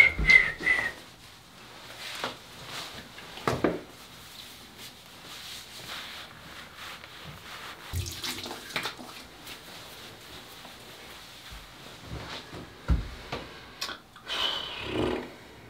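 Water running from a bathroom tap and splashing in the sink, with scattered small knocks and handling sounds.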